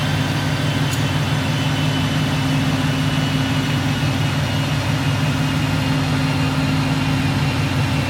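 Car engine idling steadily, an even low rumble with no revving.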